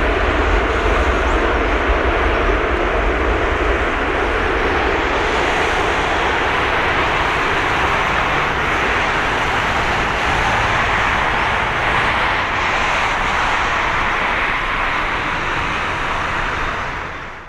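Jet engines of a landing Airbus A330-200 airliner, a loud steady roar with a deep rumble that eases after the first few seconds; it cuts off suddenly near the end.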